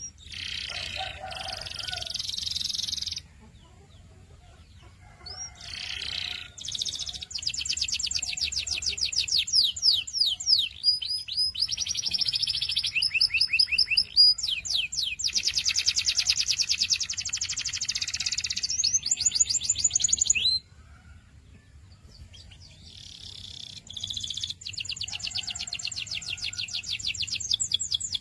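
Domestic canary singing: high phrases of rapid repeated notes and rolling trills. There is a short burst first, then a long unbroken phrase of about fourteen seconds, and after a pause of a few seconds the song starts again.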